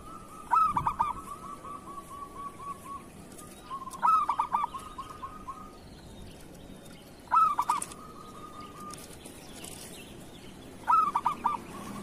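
Zebra dove (perkutut) cooing. Four song phrases come about every three and a half seconds, each a quick cluster of stuttering notes that trails off into a softer rolling run.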